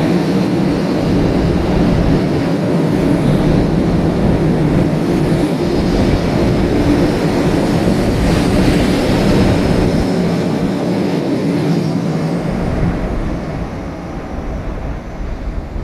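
Sanyo Shinkansen bullet train going by along the station tracks: a loud, steady rush of train noise with a low hum that dies away over the last few seconds.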